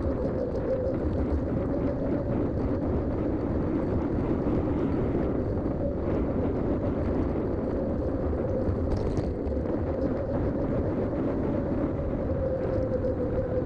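Mountain bike riding at a steady pace: Schwalbe tyres rolling on the road with a steady hum, mixed with wind noise on the GoPro microphone and faint scattered clicks.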